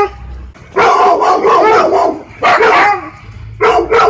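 A large pack of dogs barking, many voices overlapping, in four loud bouts with short lulls between, the longest lasting over a second.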